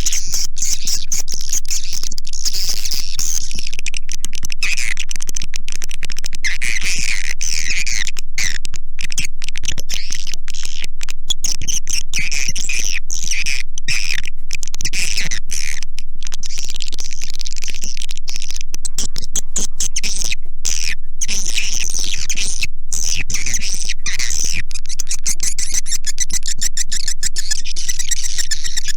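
Recorded edible-nest swiftlet calls: dense, continuous high twittering chirps, the kind of swiftlet calling track played in swiftlet houses to lure the birds in to roost and nest.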